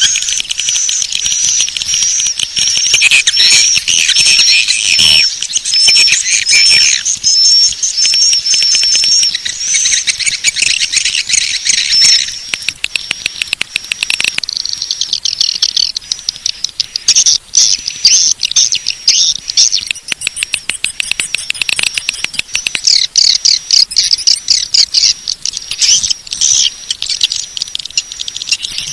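Swiftlet call track: edible-nest swiftlets twittering in dense, rapid chirps and trills, with a wavering whistle over the first twelve seconds or so, then faster chattering. This is the kind of call sound played to lure swiftlets into a nesting house.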